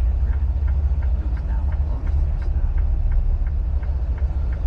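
Semi truck's diesel engine running at a low, steady rumble, with a faint regular ticking of about three a second over it.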